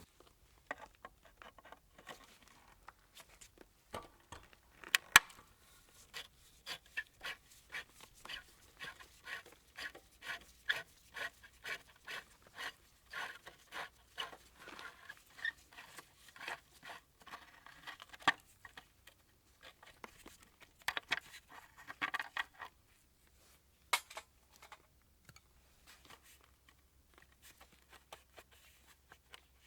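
Hand-tool work on small parts: a run of short scrapes and clicks at roughly one to two a second, with a sharp knock about five seconds in, thinning out in the second half.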